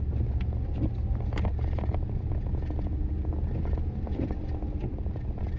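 A vehicle engine running with a steady low rumble, with a few faint clicks and knocks over it.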